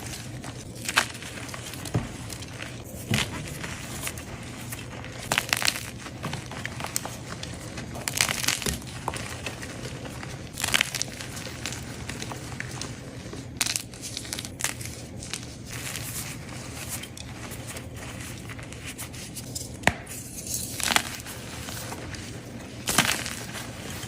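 Blocks of dyed gym chalk being crushed and crumbled, crunching and crackling in short, irregular bursts every second or two.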